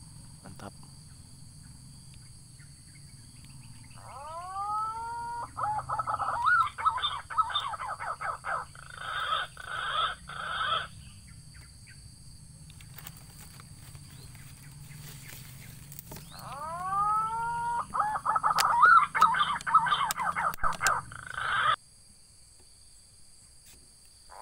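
Green pigeon (punai) calling: a string of rising whistled notes that turns into a fast, dense warbling, heard twice, about 4 seconds in and again about 17 seconds in, the second time cut off abruptly.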